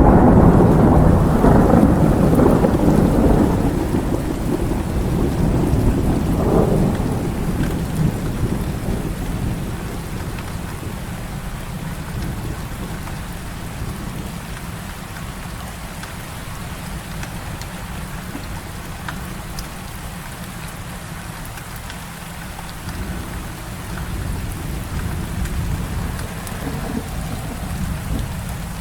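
Heavy rain falling steadily, with a loud roll of thunder at the start that rumbles on and fades over the first several seconds, swelling once more about six seconds in.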